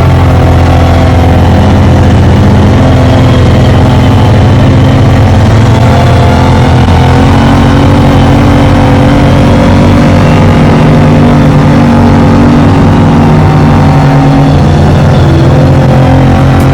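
Mud truck's engine running loud and steady under load, its pitch wavering up and down as the revs rise and fall.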